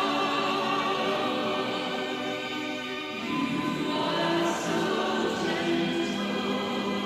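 Choral music: a choir singing sustained chords, the harmony shifting about three seconds in.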